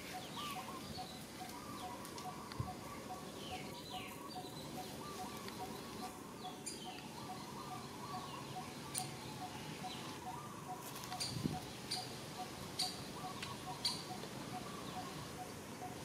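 Birds calling: one bird repeats a short, low note steadily, about two or three times a second, over scattered chirps and gliding squeaks. A few sharp clicks come in the second half.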